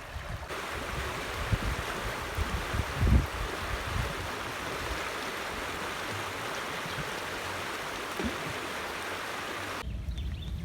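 River water rushing steadily, with a few low thumps about a second and a half and three seconds in. The water sound cuts off abruptly near the end.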